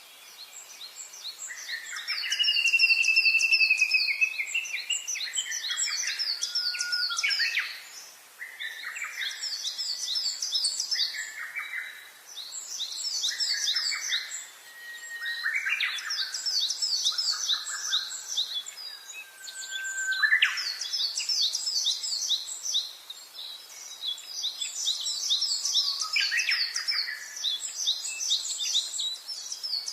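Several songbirds singing together: fast trills of repeated high notes over lower whistled phrases, one long whistle held for a couple of seconds near the start, the songs coming in phrases with brief lulls between.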